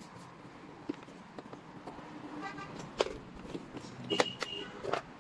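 Sharp clicks and knocks of hands and tools working on the plastic seat of a children's electric tricycle as it is taken off. Two short pitched beeps, like a horn toot, sound about halfway through and again near the end.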